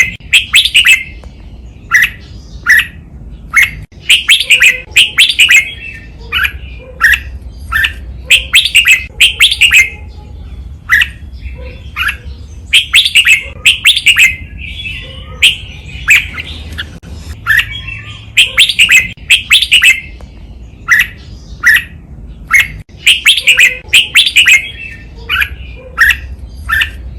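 Red-whiskered bulbul singing: loud, bright phrases of quick whistled and chirped notes, repeated every second or two with short pauses between.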